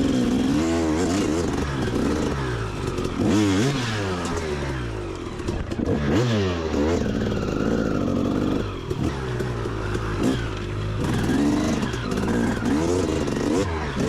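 Dirt bike engine revving hard, its revs surging up and falling back again and again as the bike is worked up a steep trail climb.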